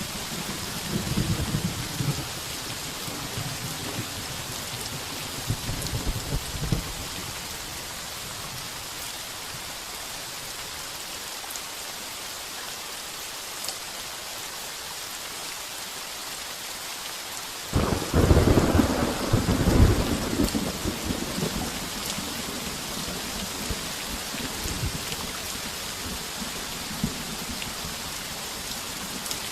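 Heavy rain pounding steadily on a tin roof, with thunder: low rumbles fade out in the first few seconds, then a sudden loud thunderclap breaks about eighteen seconds in and rolls for a few seconds before dying into distant rumbles.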